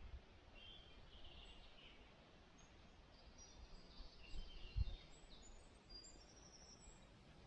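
Faint chirping of small songbirds over a low rumble, with one dull thump about five seconds in.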